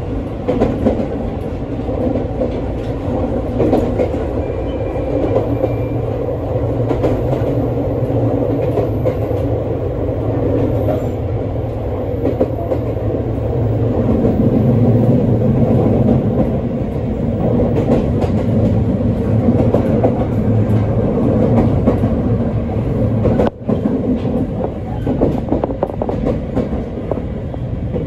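ET127 series electric train running, heard from inside the carriage: a steady rumble of wheels on rail with scattered clicks. The low hum shifts about halfway through, and the sound drops out for a moment near the end.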